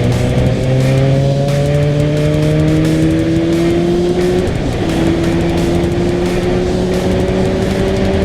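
Suzuki GSR 750's inline-four engine pulling steadily, its pitch rising slowly, with a brief dip about four and a half seconds in as it shifts gear, then rising again.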